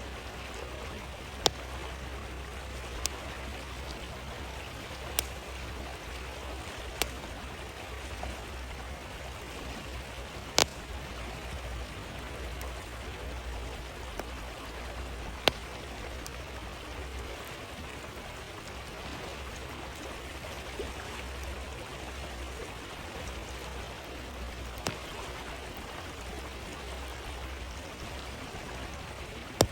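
Campfire crackling, with a sharp pop every few seconds, over the steady rush of a flowing stream.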